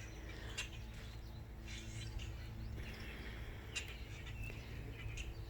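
Small songbirds at a feeder chirping now and then, short scattered calls over a steady low background hum.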